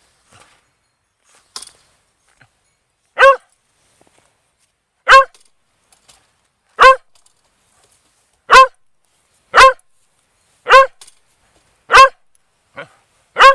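Corgi barking close to the microphone: eight loud single barks, one every one to two seconds, beginning about three seconds in.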